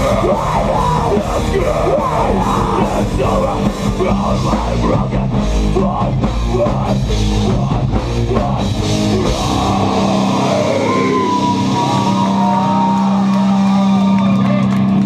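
Live rock band playing loud, distorted guitars over a drum kit. About ten seconds in, the drums drop out and the band holds a long closing chord with a sustained guitar note ringing over it, as the song ends.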